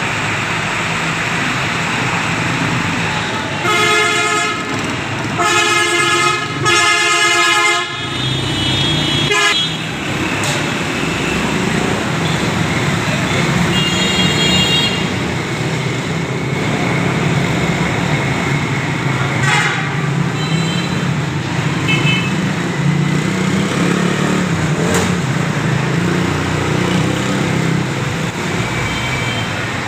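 Heavily loaded lorries' diesel engines running steadily on a ghat road climb. A vehicle horn honks three times a few seconds in, and shorter, higher-pitched honks follow later.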